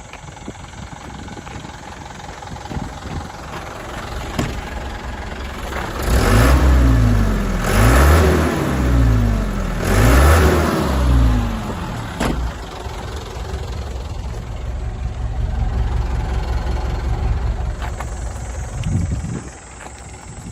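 Mitsubishi Canter's 4D34 four-cylinder turbo diesel running at idle, then revved three times in quick succession from about six seconds in, each rev rising and falling in pitch, before it drops back to a steady idle.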